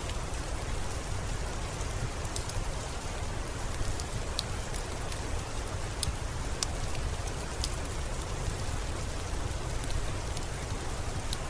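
Steady rainfall, an even hiss with a low rumble beneath, dotted with scattered sharp pops of a crackling wood fire.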